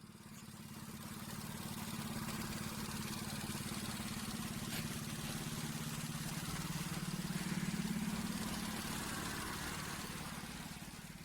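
Small four-stroke moped engine idling steadily. It fades in over the first couple of seconds and fades out near the end.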